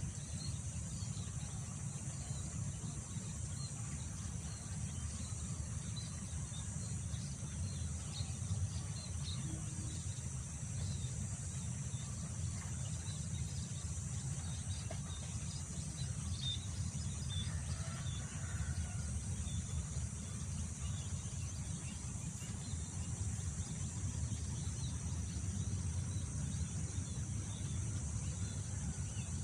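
Steady low wind rumble under a continuous high drone of crickets or other insects, with scattered faint bird chirps.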